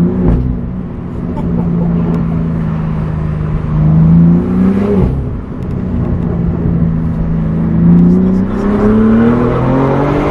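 BMW M4 G82's S58 twin-turbo straight-six running through a titanium cat-back exhaust while driving and accelerating through the gears. The pitch climbs, drops at a gear change about five seconds in, then climbs again steadily near the end.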